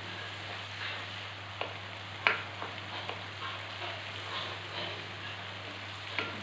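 Spice paste frying and sizzling in a non-stick wok while a wooden spatula stirs it, with a few sharp knocks of the spatula against the pan, the loudest a little over two seconds in. The paste is being fried until the oil separates out on top ('pecah minyak').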